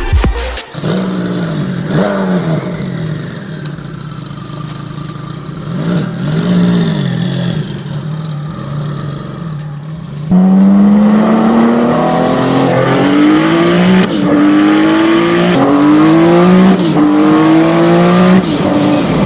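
High-performance sports car engine revving. About halfway through it gets much louder and accelerates hard, the pitch climbing and dropping back several times as it shifts up through the gears.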